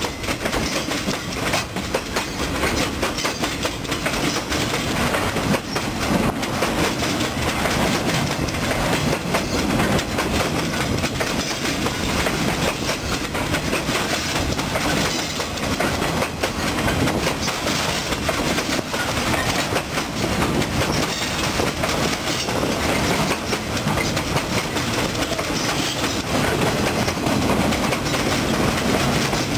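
Loaded freight flatcars rolling past at a steady speed: a continuous rumble of steel wheels on the rails, with a running series of clicks and knocks as the wheels pass over the rail joints.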